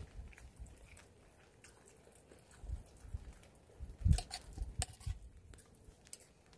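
A person eating close to the microphone: soft chewing with scattered light clicks and a few dull thumps.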